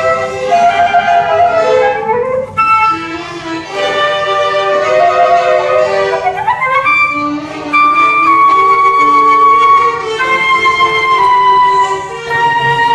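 Youth orchestra playing held, layered notes, with one line sliding up in pitch about six seconds in.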